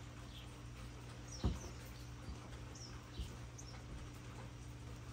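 Faint, scattered bird chirps over a steady low hum, with two soft thumps, about a second and a half and three seconds in.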